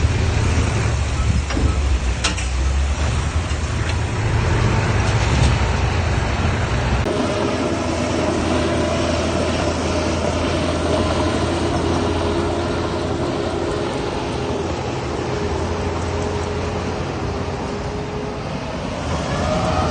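Heavy diesel earthmoving machinery running: a deep engine rumble for the first seven seconds or so, then a lighter sound with a steady whine and several held tones.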